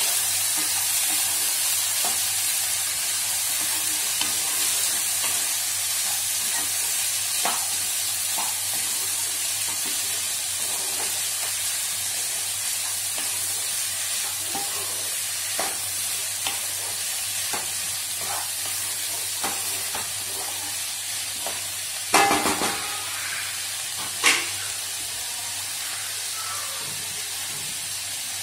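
Diced banana stem and sprouted green gram sizzling in oil in a kadai while a wooden spatula stirs them, with scattered light scrapes and taps. The sizzle slowly dies down, and near the end come two louder knocks about two seconds apart.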